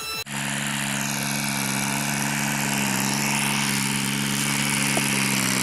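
A small electric motor running steadily: an even low hum with a hiss over it, cutting in suddenly just after the start.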